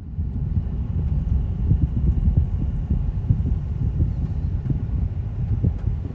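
A vehicle on the move, heard as a steady low rumble with irregular buffeting, much like wind on the microphone.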